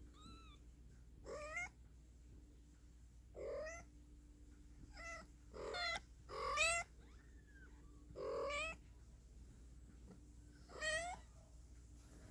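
A cat meowing repeatedly: about seven short calls, each rising in pitch, a second or two apart.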